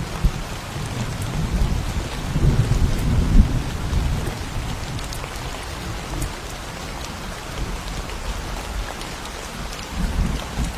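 Thunderstorm: steady rain with scattered drop ticks, and a low thunder rumble that swells about two seconds in, fades away, and starts building again near the end.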